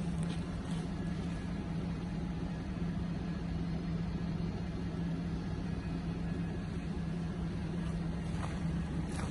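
Isuzu Forward N75.150 truck's 3.0-litre diesel engine idling steadily, with an even low hum.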